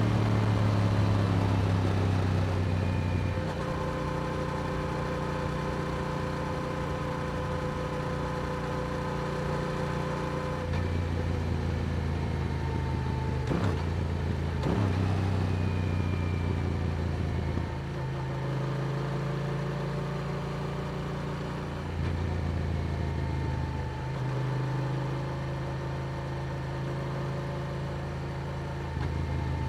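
Yamaha R7 parallel-twin engine running through an Akrapovic exhaust while the motorcycle cruises, with road and wind noise. The engine note steps up or down in pitch several times as the throttle changes.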